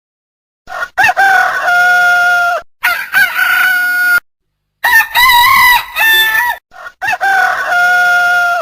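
Rooster crowing: four cock-a-doodle-doo calls in a row, starting about a second in, each rising quickly and then holding a long steady note.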